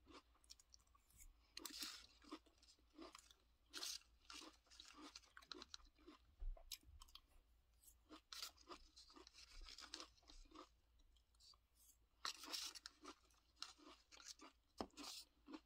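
Faint crunching and chewing of a mouthful of Apple Pie Toast Crunch cereal in milk: irregular crisp crunches, with a few louder clusters of crunches.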